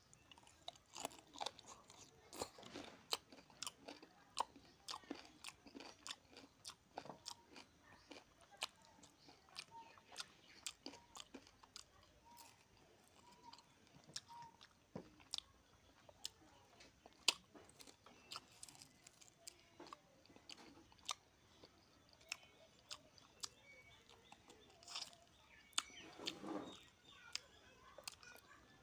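Close-up eating sounds of a person chewing rice and chicken curry eaten by hand: many soft, irregular clicks of lips and tongue. There is a longer, louder mouth sound near the end as he bites at a chicken leg.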